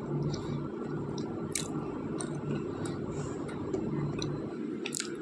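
Close-miked chewing of a mouthful of crushed white slate pencil, a wet, squishy mastication with a few sharp clicks, one about a second and a half in and a couple near the end.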